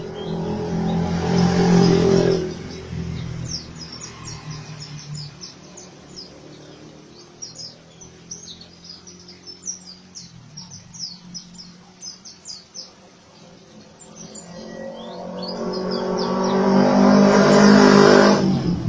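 White-eye (pleci) singing a rapid run of short, high chirps and twitters without pause. A vehicle passes twice, once in the first couple of seconds and again louder near the end, swelling up and fading, and drowning out the bird.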